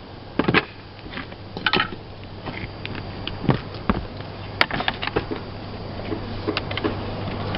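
Irregular clicks, knocks and scrapes of slate pieces and a slater's tool as broken slate debris is worked out of a gap in a slate roof, over a low steady hum.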